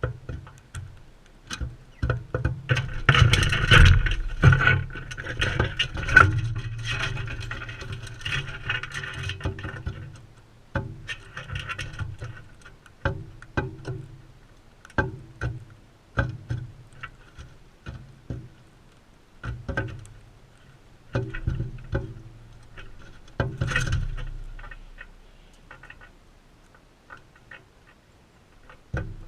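Irregular taps, clicks and knocks from birds pecking and moving about on a feeder close to the camera, with a busier scuffle a few seconds in and another brief flurry near the end.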